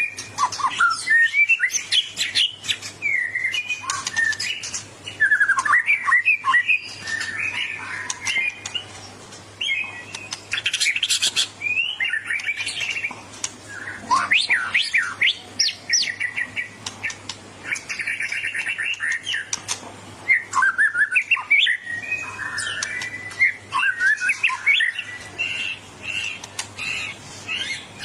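White-rumped shama (murai batu) singing an aggressive challenge song: a fast, varied run of short whistles, chirps and harsher notes, broken by brief pauses.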